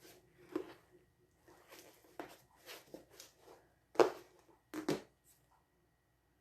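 Rustling and light knocks from hands handling things at a work table: about a dozen short noises, the loudest about four seconds in and two more just before five seconds.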